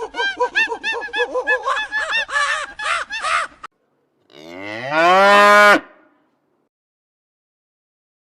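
A cow moos once, a long, loud call that rises in pitch and then holds before cutting off, about halfway through. Before it, a run of rapid short bird calls ends after a few seconds.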